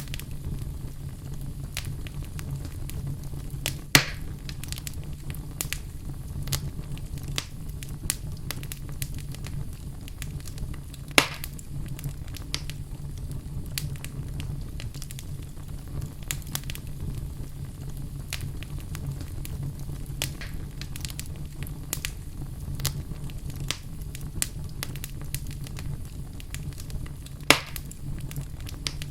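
Wood fire burning in a fireplace: a steady low rumble of the flames with constant scattered crackles and three louder pops, about four seconds in, about eleven seconds in, and near the end.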